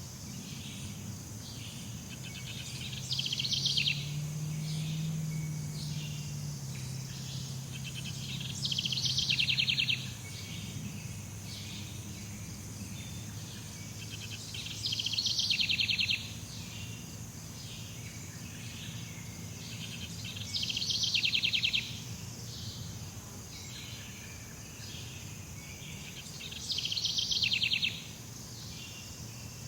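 Jungle ambience: a steady high insect chorus, with a loud, rapidly pulsing trilled call repeating five times, about every six seconds, each lasting a second or so.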